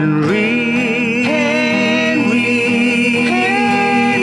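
A sung voice holding long notes with a slight vibrato, stepping between pitches a few times, over backing music.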